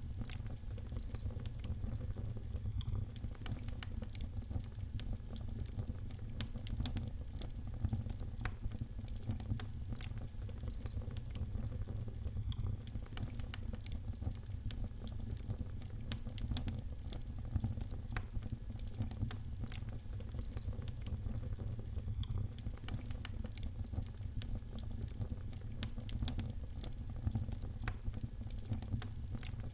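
Wood fire crackling in a fireplace: a steady low rumble of flames with frequent sharp, irregular pops and crackles.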